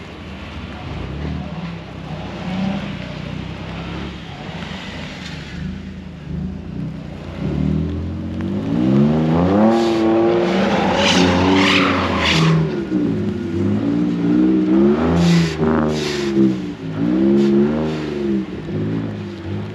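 Car engine revving hard, its pitch rising and falling again and again from about eight seconds in, with short bursts of hiss over it.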